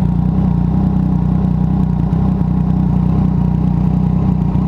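Yamaha MT-09's inline-three engine through an aftermarket stainless-steel slip-on exhaust, running loud at a steady engine speed with no revving.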